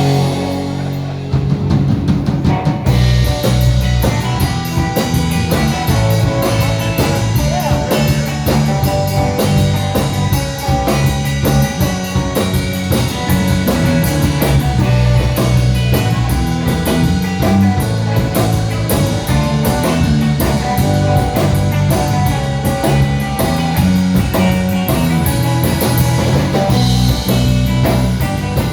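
Live rock band playing loudly, with electric guitar and drum kit. After a brief thinner passage, the full kit and cymbals come back in about three seconds in and keep driving on.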